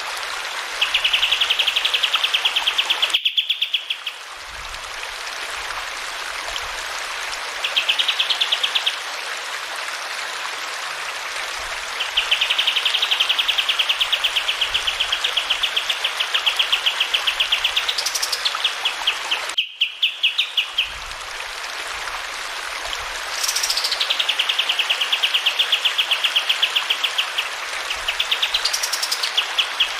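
A kapas tembak songbird singing long, rapid, evenly pulsed trills of clear notes, some phrases opening with a quick rising whistle, over the steady rush of running water. The sound cuts out abruptly twice, as at a loop join.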